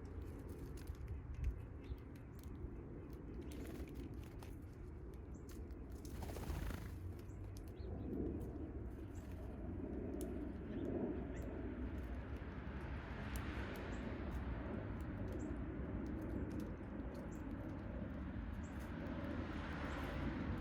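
Small backyard birds giving short, scattered high chirps over a steady low outdoor rumble, with a brief rushing noise about six seconds in.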